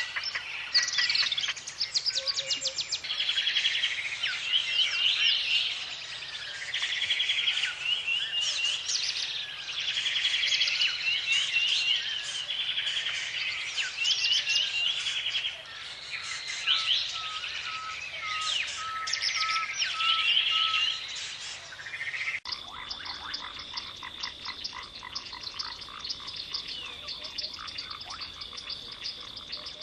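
A chorus of calling animals: overlapping pulsed trills that repeat every second or so. About two-thirds of the way through the sound changes abruptly to a different chorus, a steady high trill with rapid pulsing beneath it.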